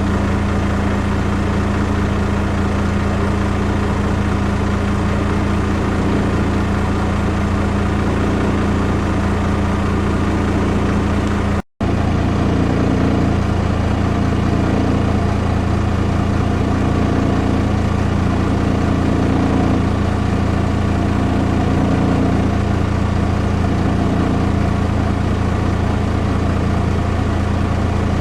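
Yamaha SX420KUH inboard engine of an FC-27 boat idling steadily, with a brief cut in the sound about twelve seconds in.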